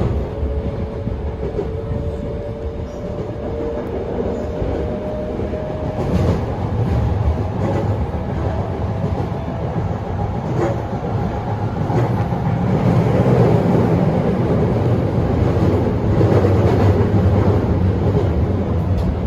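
Running sound inside a Toei 5300-series train's motor car: the Mitsubishi GTO-VVVF inverter tone is heard for the first few seconds, then fades under wheel and rail rumble with occasional clicks over rail joints, growing louder in the second half.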